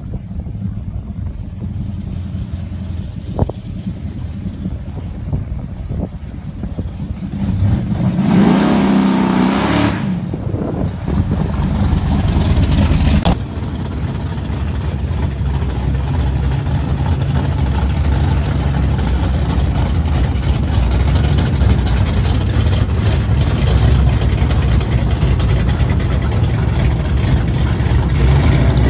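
Gasser hot rod's engine rumbling at idle, revved hard about eight seconds in, then running loud and steady.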